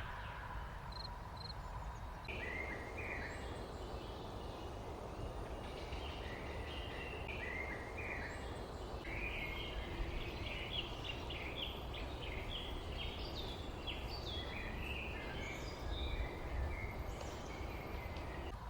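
Small birds chirping busily, many short overlapping chirps starting about two seconds in, over a steady background hiss and low rumble.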